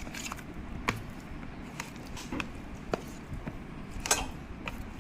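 Scattered light clicks and taps over a steady background hiss, irregularly spaced about every half second to second, with one sharper, slightly longer click about four seconds in.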